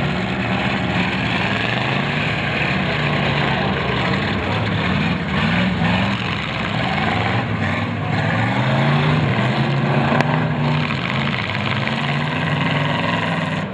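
Demolition derby car engines revving, rising and falling in pitch again and again as the cars manoeuvre, with one sharp crack about ten seconds in.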